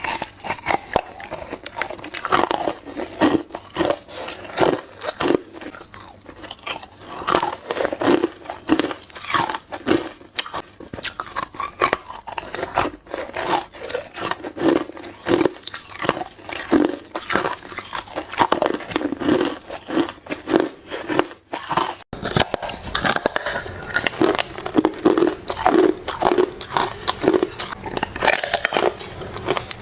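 Hard ice cubes being bitten and chewed close to the mic: a dense, steady run of sharp crunches and cracks, with one short pause about three-quarters of the way through.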